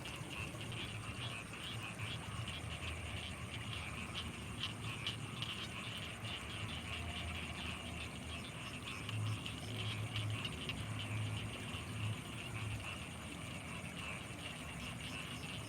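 Night chorus of frogs and insects from rice paddies: a dense chatter of quick high calls over a steady thin high whine. A deep frog call pulses in a run a little past halfway.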